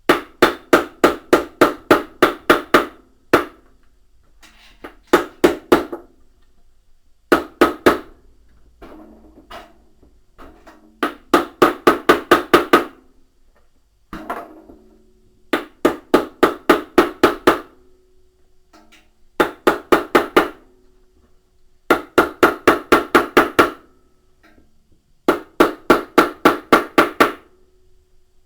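Hammer blows tapping a part into a washing machine's tub, struck on its outer edge so that it seats without forcing the centre. The blows come in quick runs of about four a second, each with a short metallic ring, with short pauses between the runs.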